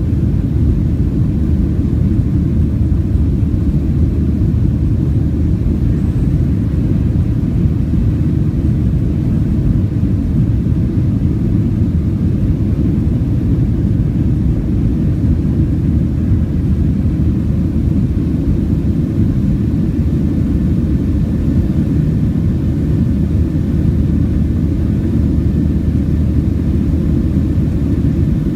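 Steady low rumble of a Southwest Boeing 737's jet engines and airflow heard inside the passenger cabin.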